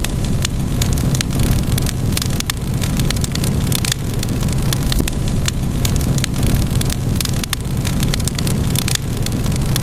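Wood fire crackling, with frequent sharp, irregular pops and snaps over a steady low rumble of burning.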